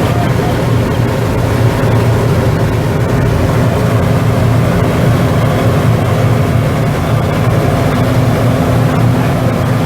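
A vehicle engine running at a steady low drone, its pitch holding even.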